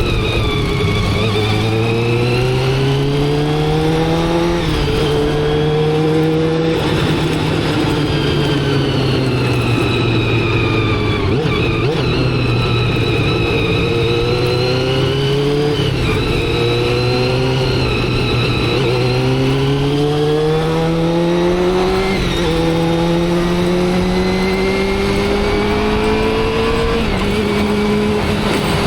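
Motorcycle engine under way, with steady wind noise throughout. In the first seconds the pitch climbs and drops back at each gear change; through the middle it sinks slowly as the bike slows, and in the last third it climbs through gear changes again.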